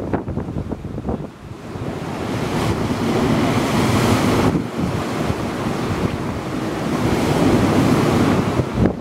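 Storm surf: heavy waves breaking and washing against a sea wall, with wind buffeting the microphone. The surf swells up twice, about a third of the way in and again near the end.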